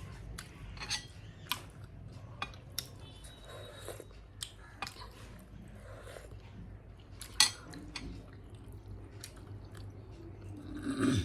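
Eating sounds: cutlery clicking and scraping against plates and bowls, with chewing between. The sharpest clink comes about seven seconds in, and a longer, louder noise with a falling low tone comes right at the end.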